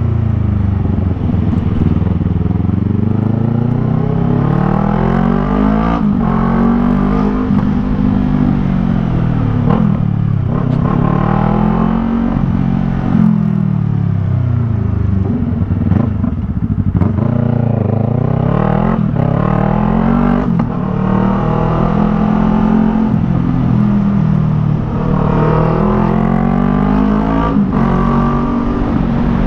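Yamaha MT-03's parallel-twin engine through a Jeskap R3 Cup aftermarket exhaust, on the move, its pitch rising and falling again and again every few seconds as the rider accelerates and backs off.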